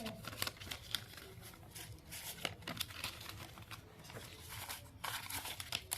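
Paper rustling and crinkling as banknotes are handled and sorted, a string of short, irregular crackles.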